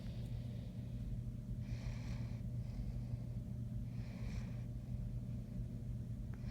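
Great Dane snoring in its sleep, a breathy snore about every two seconds over a steady low hum.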